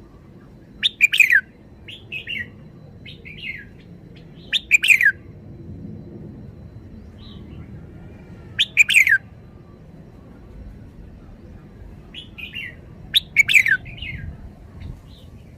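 Red-whiskered bulbul singing: four short, loud phrases of quick falling notes, about four seconds apart, with softer chirps in between.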